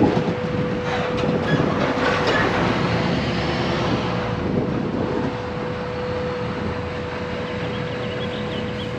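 Dually pickup truck driving with a car-hauler trailer on a fifth-wheel hitch: steady road and running noise with clanking and rattling from the trailer and hitch, busiest in the first few seconds, over a steady hum.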